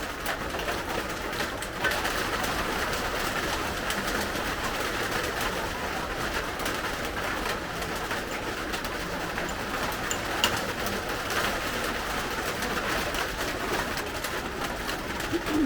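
Steady rain falling outside: an even hiss with a scattered patter of drops.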